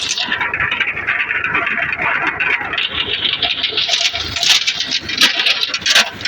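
Farm tractor's engine running under steady work, a dense mechanical noise with a few sharp knocks in the second half.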